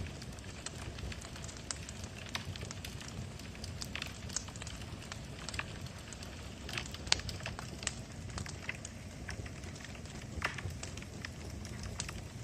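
Wood fire burning in a fireplace: a steady low rumble of flames with irregular sharp crackles and pops, one louder pop about seven seconds in.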